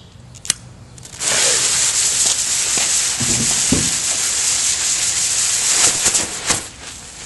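A sharp click, then about a second later a loud steady hiss as the gray quick fuse flashes through and the visco fuses of three zip-tied smoke bombs catch and sputter. A couple of dull thumps come midway, and the hiss fades after about five seconds.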